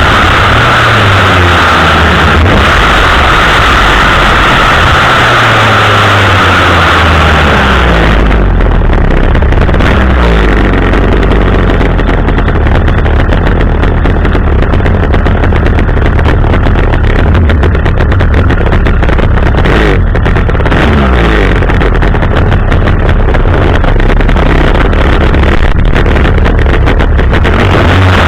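Chainsaw engine running loud and close at high revs. About eight seconds in its high whine gives way to a lower, rougher sound that carries on to the end.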